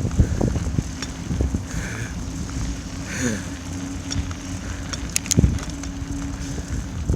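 Bicycle on studded tires riding through snow: a steady rumble with irregular crunching and rattling knocks, and wind on the microphone. A steady low hum sits underneath through the second half, and a few sharp clicks come near the end.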